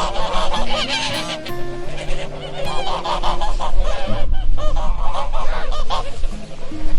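Many overlapping honking calls of a flock of geese, with a low melody of held notes underneath.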